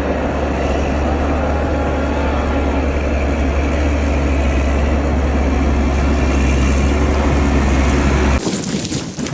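A steady, loud low rumble like an engine or vehicle running, which cuts off abruptly near the end and gives way to a thinner, crackling rush like wind on the microphone.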